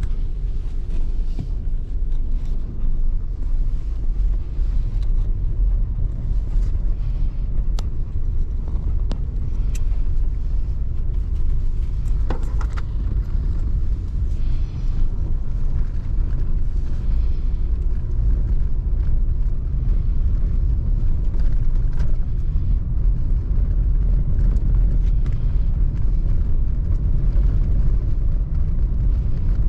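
Vehicle driving on a snow-covered gravel road: a steady low rumble of engine and tyres, with a few sharp clicks now and then.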